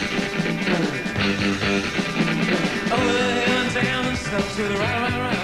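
Guitar rock music with electric guitars over a steady beat; a wavering melodic line, which may be a voice, comes in about three seconds in.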